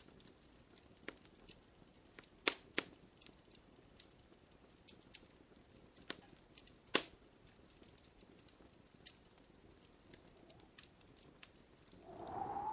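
Wood fire crackling in a fireplace: irregular sharp pops and snaps, the loudest a few seconds in, with a brief hiss near the end.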